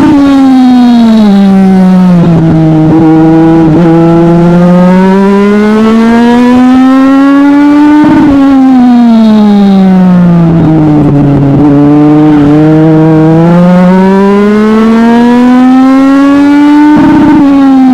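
Legend race car's four-cylinder Yamaha motorcycle-derived engine at racing speed, running close and loud. In a repeating cycle about every nine seconds, the pitch drops sharply as the throttle lifts for a turn, holds low through the corner, then climbs steadily as the car accelerates down the straight. The lifts come near the start, about eight seconds in and near the end: lap after lap on a short oval.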